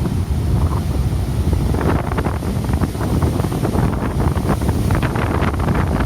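Strong wind buffeting the microphone with a heavy low rumble, over rough sea ahead of a typhoon. From about two seconds in, a wave breaks and the surf hisses and crackles as it washes in.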